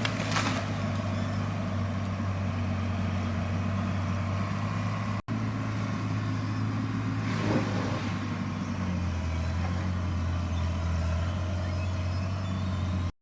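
Compact articulated loader's engine running steadily under load, with two short louder rushes of noise, about half a second and about seven and a half seconds in.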